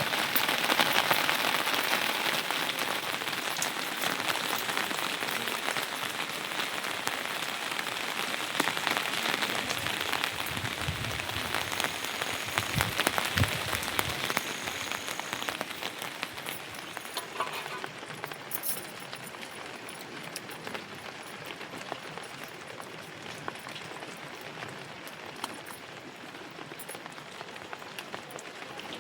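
Rain falling steadily, with many individual drops ticking. It grows lighter a little past the middle.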